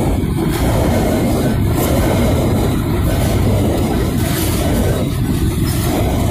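Freight train of covered hopper cars rolling past, a loud, steady rumble of steel wheels on the rails.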